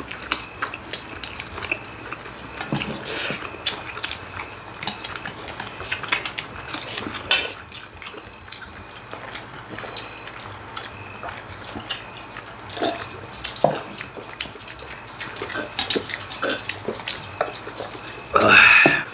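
Family eating: chopsticks and spoons clicking and tapping against bowls and plates, with chewing and slurping. A brief louder sound comes near the end.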